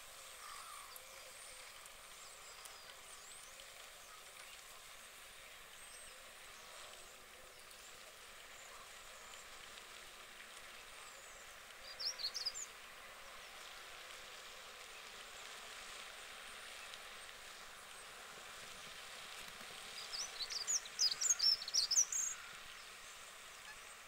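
A bird chirping in two short bursts of high-pitched, rapid notes: a brief one about halfway through and a longer, louder one near the end, over faint lakeside background noise.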